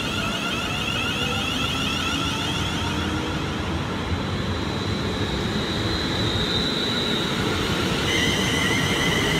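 London Midland class 350 electric multiple unit pulling out of the station, a steady running noise with high whining tones from its electric drive. A second pair of whining tones comes in about eight seconds in.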